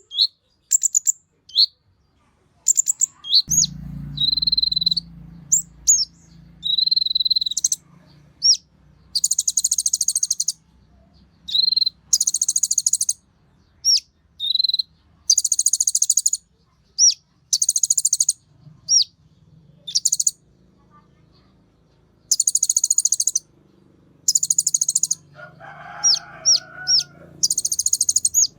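Olive-backed sunbird (kolibri ninja) singing: sharp, high, sweeping chirps mixed with repeated bursts of rapid buzzy trills, each about a second long.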